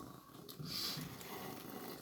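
Cat purring in a low, pulsing rasp, with a short breathy hiss about halfway through.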